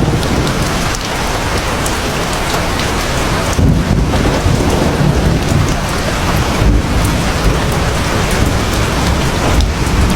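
Heavy rain falling steadily, with a low rumble of thunder underneath that swells about a third of the way in.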